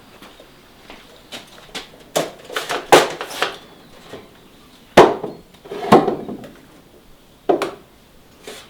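Dishes and utensils being handled: irregular sharp knocks and clatter, loudest about three, five and six seconds in.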